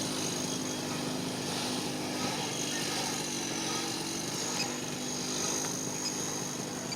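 Small propeller-driven motors running steadily: an even hum with a thin high whine above it.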